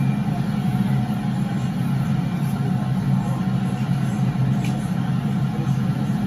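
Steady low rumble and hum of an MTR M-train standing or moving beside an underground platform, heard through the platform screen doors.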